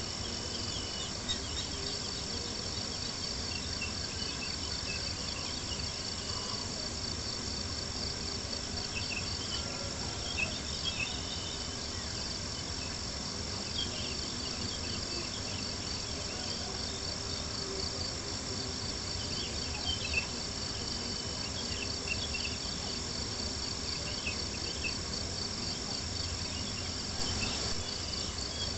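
Crickets chirping in a steady, dense chorus, with scattered small pops and crackles from a campfire.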